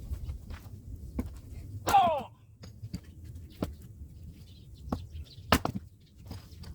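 Hand axe striking firewood, sped up to double speed: sharp blows, the loudest about 2 and 5.5 seconds in, with fainter knocks between. The first loud blow is followed by a brief falling squeal.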